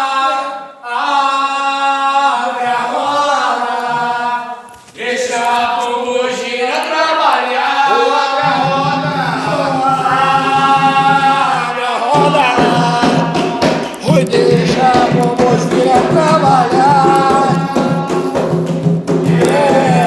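Voices singing an Umbanda ponto, a sacred chant. About eight seconds in a low steady tone joins the singing, and from about twelve seconds in percussion strikes in a quick rhythm under the voices.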